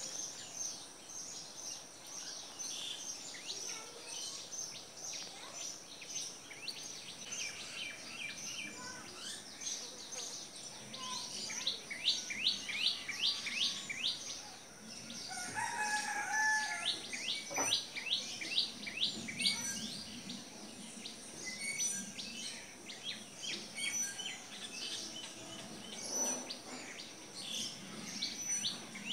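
Birds chirping and singing, with fast runs of repeated high, down-slurred notes, and a lower call about halfway through.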